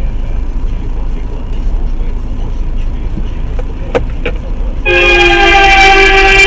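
Vehicle horn sounded in one long, loud blast, beginning about five seconds in, with several pitches at once. Under it a steady low rumble of engine and road noise, and two short clicks just before the horn.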